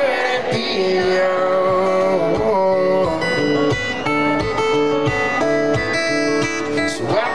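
Live concert music: a guitar-led instrumental break between sung verses, with sustained plucked notes over the band.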